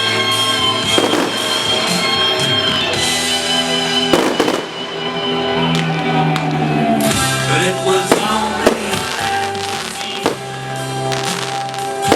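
Fireworks bursting over loud music: a series of sharp bangs, the loudest about four seconds in, then a quicker run of bangs from about seven seconds on.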